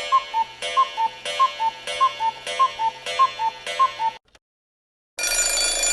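Ticking-clock sound effect: a tick-tock repeating about every 0.6 seconds, seven times, stopping abruptly after about four seconds. About a second later a second steady sound with many tones lasts about a second.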